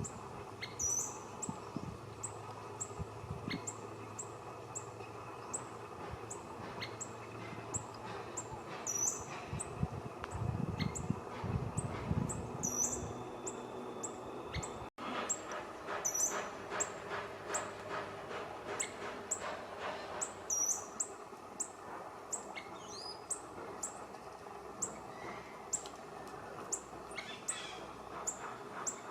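Birds calling: short high chirps about once a second, with louder downward-slurred high notes every few seconds. A run of faint, evenly spaced taps comes in about halfway through and lasts around five seconds.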